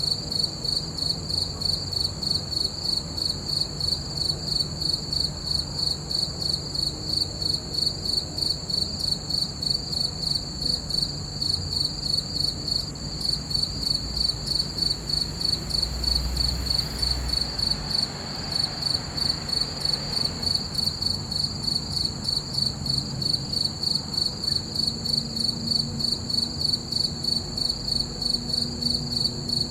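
Crickets chirping in a steady, even rhythm of high-pitched pulses.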